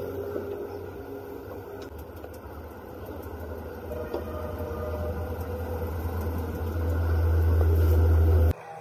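A low mechanical rumble, like an engine running, growing louder toward the end and cutting off suddenly just before the end.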